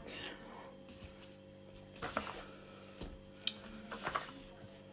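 Quiet room tone with a steady low hum and a few faint, short knocks and clicks scattered through.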